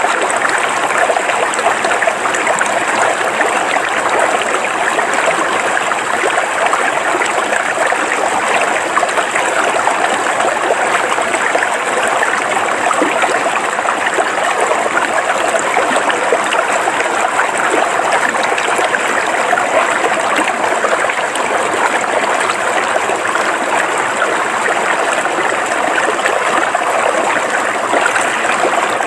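River water flowing and splashing over rocks, a steady rushing babble that keeps an even level throughout.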